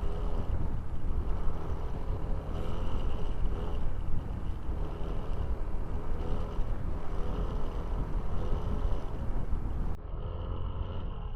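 Motorcycle engine running on the move, its pitch rising and falling gently with throttle, under heavy wind noise on the action camera's microphone.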